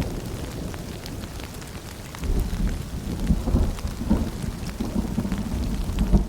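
Rain and dripping with a low rolling rumble of distant thunder, which eases and then swells again about two seconds in.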